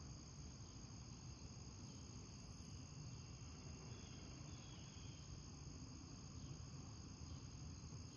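Faint, steady chirring of a cricket chorus in a nature-sound backdrop, over a low steady rumble.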